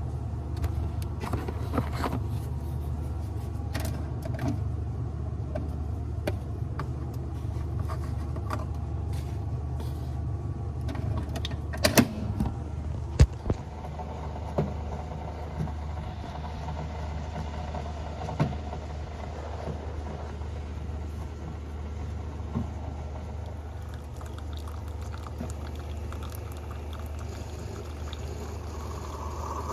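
Steady low rumble of a car on the move, with scattered light clicks and knocks and a couple of sharper knocks about halfway through.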